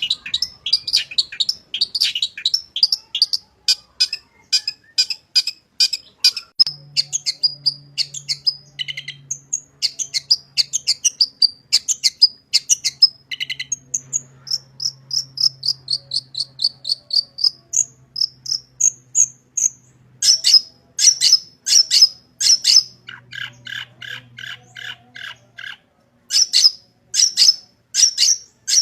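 Long-tailed shrike singing a fast, varied song of sharp chirping notes, several a second, with borrowed phrases from other birds mixed in. In the last third it switches to harsher calls and a lower, evenly repeated series of notes.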